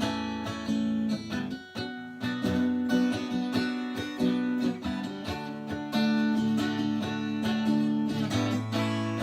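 Acoustic guitar strumming a chord progression as a song's instrumental intro, with no singing.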